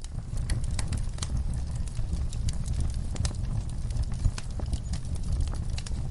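Wood fire crackling in a fireplace: a steady low rumble of flames with irregular sharp pops and crackles of burning logs.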